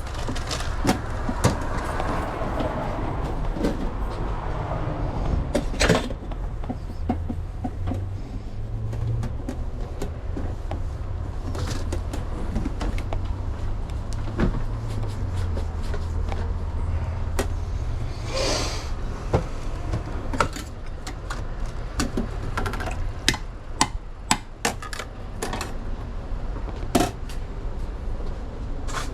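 Scattered clicks, knocks and clatters of work inside a hot dog truck, over a steady low hum.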